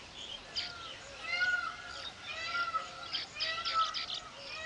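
Weaver birds calling at a nesting colony: a short arched note repeated about every half second, among a busy chatter of brief higher notes.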